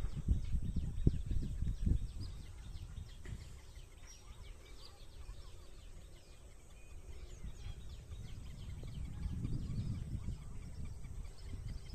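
Many birds chirping with short, rapid calls at a lake, overlapping throughout. Bursts of low rumble come in the first two seconds and again near the end.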